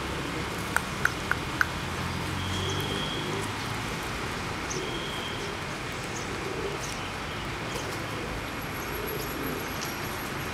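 Steady outdoor park ambience: an even wash of noise with four quick sharp ticks about a second in and a couple of short, high chirps a few seconds later.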